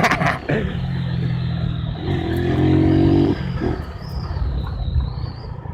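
Honda CG 150's single-cylinder four-stroke engine running as the bike is ridden off-road. It gets louder under throttle from about two seconds in, then eases back after just over three seconds.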